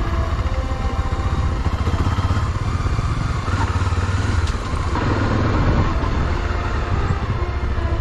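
Single-cylinder trail motorcycle engine running at low revs while riding down a rough dirt descent. The engine note dips briefly about halfway through.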